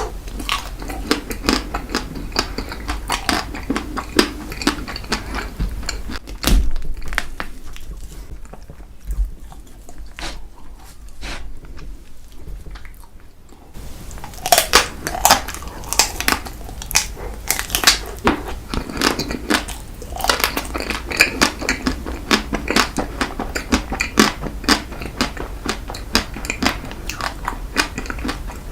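Close-miked eating of an ice cream dessert cake: bites and chewing with crisp crunches and crackles. It goes quieter for several seconds in the middle, then the bites pick up again.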